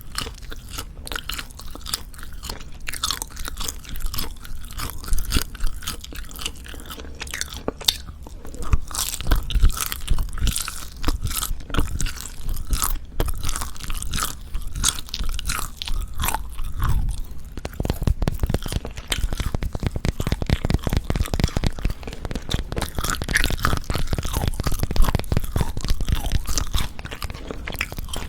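Close-miked ASMR chewing and biting of Jeju black pork jerky: dense, crackly tearing and chewing of dry meat, with a run of fast, even chewing strokes in the second half.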